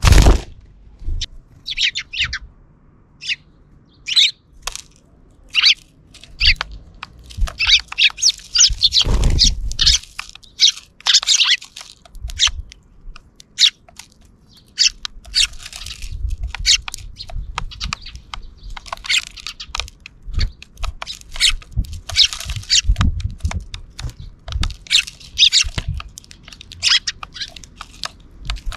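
Sparrows chirping in short, repeated calls, with many small clicks and taps among them and a loud thump right at the start.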